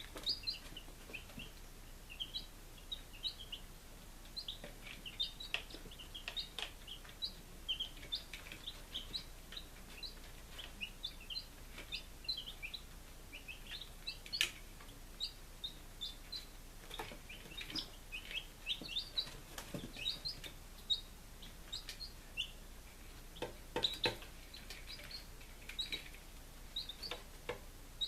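Five-day-old chicks peeping continuously, many short high peeps overlapping in quick succession, with a few sharp taps among them.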